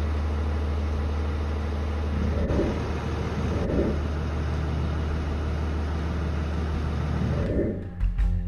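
A Mercedes E320 CDI's 3.2-litre inline-six turbodiesel running steadily with a low hum, with three brief swells in engine note.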